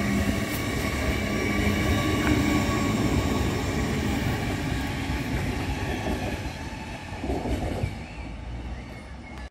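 GWR Class 800 express train (800321) running past and pulling away, its wheels rumbling on the rails with a steady whine above. The sound fades over the last few seconds as the train draws off.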